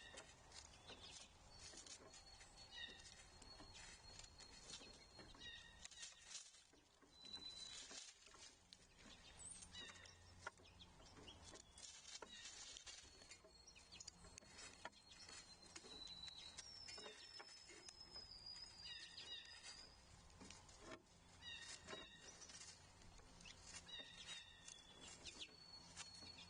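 Faint wild bird calls: groups of short, repeated notes and several long, high, steady whistles, with scattered small clicks.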